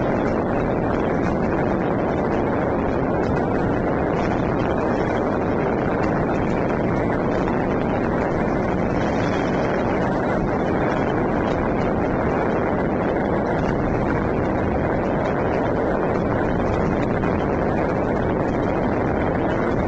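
Dense barrage of Spring Festival firecrackers and fireworks going off all around, countless bangs and crackles merging into one loud, steady din.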